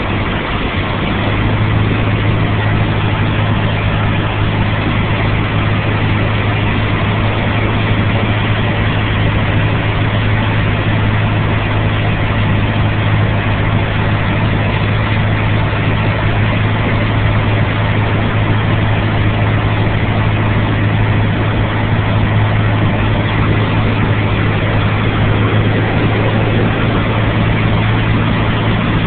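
Cessna 152's four-cylinder Lycoming engine and propeller heard from inside the cockpit: a steady drone with a strong low hum, with no change in power.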